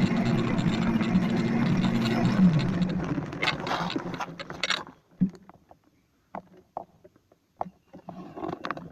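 Small electric dirt bike running, its motor whine steady over wind and rolling noise; about two and a half seconds in the whine falls in pitch and the noise dies away over the next two seconds as the motor cuts out, a fault the rider says keeps happening. Scattered clicks and knocks follow.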